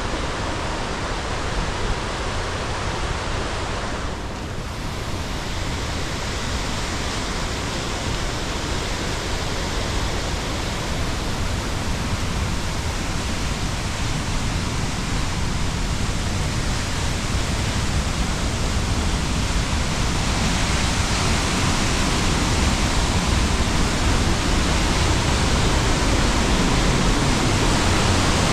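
Mountain waterfall with a steady, dense rush of falling water, growing slightly louder toward the end.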